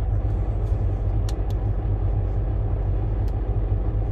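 Volvo semi-truck's diesel engine idling with a steady low rumble while parked, before a parked DPF regeneration begins.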